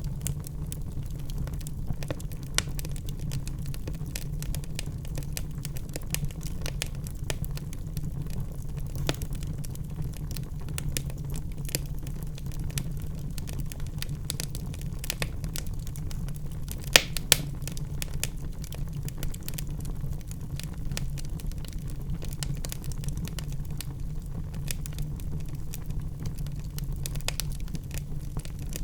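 Log fire in a fireplace crackling: irregular sharp pops and snaps over a steady low rumble of burning, with two louder pops in quick succession a little past halfway.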